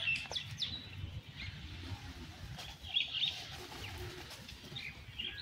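Birds chirping in short, scattered high calls, a few near the start and a cluster about three seconds in, over a low outdoor rumble.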